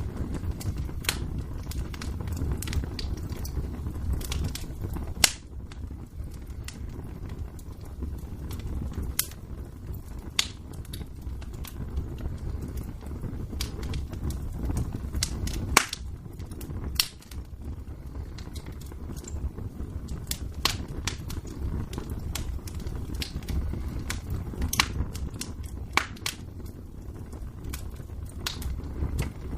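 Wood fire in a fireplace crackling, with sharp irregular pops over a steady low rumble of the flames; two pops stand out, about five seconds in and again near the middle.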